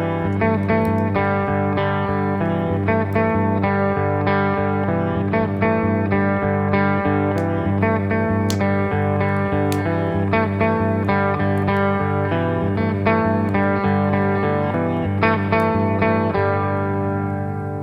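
Desert-blues guitar playing a repeating picked figure over a steady low drone. About sixteen seconds in, the picking stops and the last notes ring out and fade.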